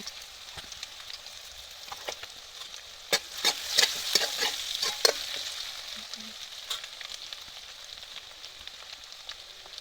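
Cumin seeds sizzling in hot oil in a frying pan, a steady hiss. From about three to five seconds in, a spatula clicks and scrapes against the pan as the seeds are stirred.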